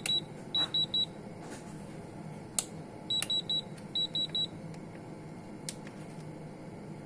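An electronic beeper sounds short, high beeps in groups of three: one group about a second in and two more around three to four and a half seconds in. A few sharp clicks fall between them over a low steady hum. The beeper is likely the control panel of a Samsung inverter refrigerator that is showing a 10-blink fault.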